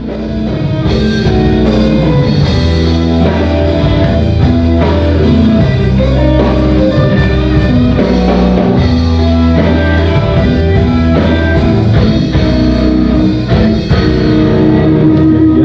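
Live rock band playing an instrumental intro with electric guitar, bass and drum kit, at a steady loud level.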